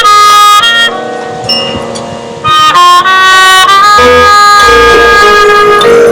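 Marching band of brass and woodwinds playing held notes. The music turns softer about a second in, then swells into a loud, long-held chord through the second half.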